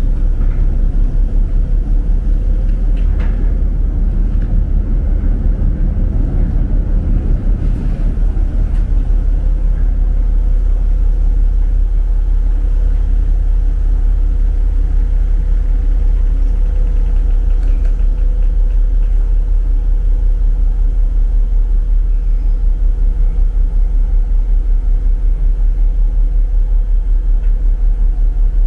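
The ferry Taiko's engines running underway: a steady, loud low drone with a constant hum and an even throb.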